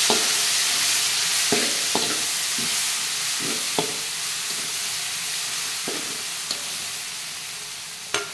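Spice paste of ground chilies with lemongrass sizzling in hot oil in a wok while a ladle stirs it, scraping and knocking against the wok every second or two. The sizzle slowly fades.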